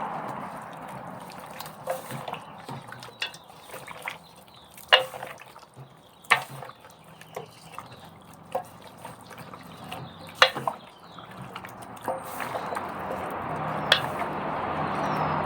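Kitchen clatter: scattered sharp clinks and knocks of utensils and containers, a few with a short ring, and a steady hiss with a low hum building in the last few seconds.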